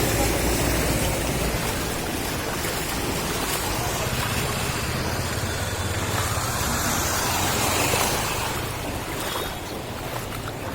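Steady rushing noise of floodwater, with wind rumbling on the microphone; it eases off a little about eight seconds in.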